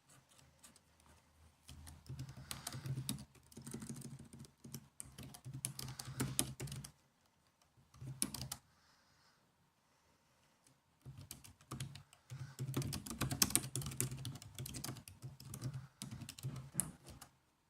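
Typing on a laptop keyboard: runs of rapid key clicks in bursts, with a pause of a few seconds around the middle broken by one short flurry.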